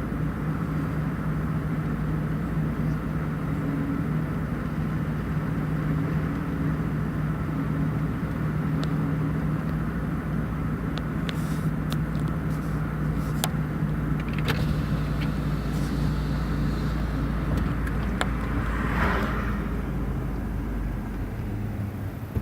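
A car running steadily, with a constant engine hum and low road rumble, and a few light clicks and a short hiss in the second half.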